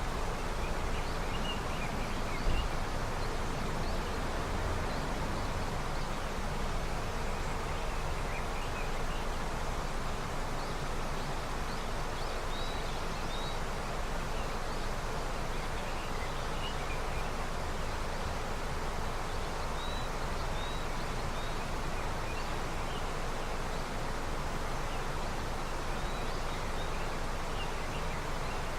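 Steady rushing of a river running with snowmelt. A bird gives short, high chirps now and then over the water noise.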